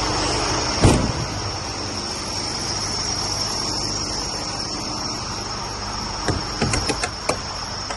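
Diesel truck engine idling with a steady low hum under a constant high whine, a loud knock about a second in, and a few sharp clicks near the end.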